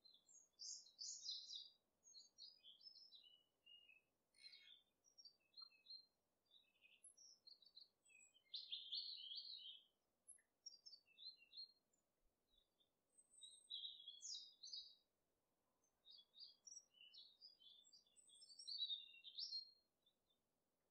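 Small birds chirping and twittering in many short, high, irregular bursts with brief pauses between them.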